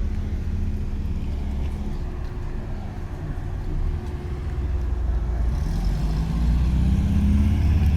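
Car engine running, its pitch rising and then falling again over the last couple of seconds, over a steady low rumble.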